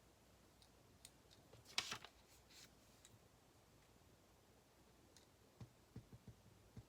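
Quiet desk sounds while studying: a few small clicks, a brief scratchy rustle about two seconds in, then several soft low taps near the end.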